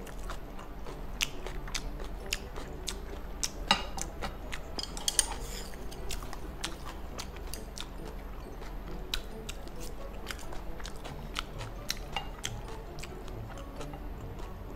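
Close-miked chewing of spicy gopchang fried rice, with many short, sharp clicks and smacks scattered throughout. A brief scraping noise comes about four to five seconds in, over a steady low hum.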